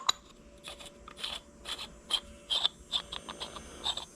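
Small metal starter-motor parts being handled and fitted together: a run of irregular light clicks and taps, about a dozen over a few seconds, with a little scraping.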